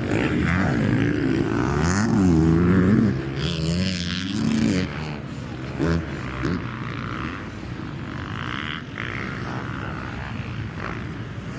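Motocross dirt bikes on the track, engines revving up and down through the gears as they pass close, loudest in the first few seconds, then settling into a quieter, steadier drone of bikes further round the track with a brief rev about halfway through.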